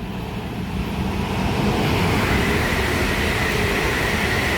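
A pair of Class 350 Desiro electric multiple units running by on the line. The noise builds over the first second or so, then holds steady and loud, with a faint high whine joining about two seconds in.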